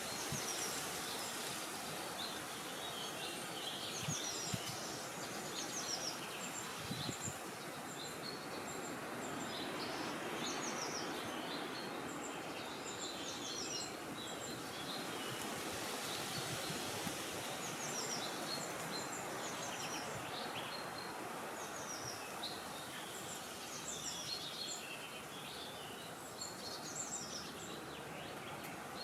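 Wind blowing steadily, with many small birds chirping and twittering throughout.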